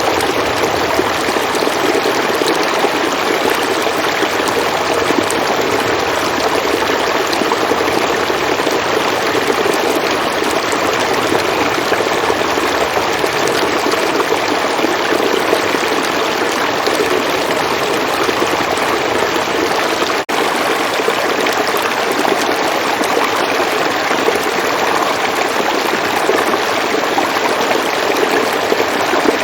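River water flowing steadily in a continuous rushing stream. A split-second dip in level breaks it about two-thirds of the way through.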